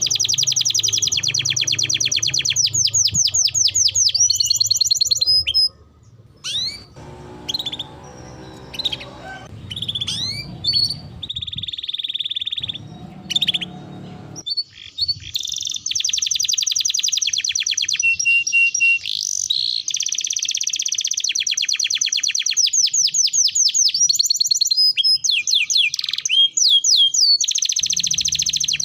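Canary singing: long, rapid rolling trills, broken around the middle by scattered chirps and short phrases before the rolls resume. A low hum sits under the first few seconds.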